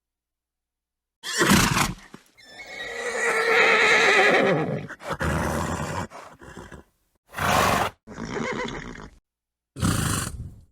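A horse gives a short snort, then one long whinny that falls in pitch at its end, followed by several more short snorts and blows.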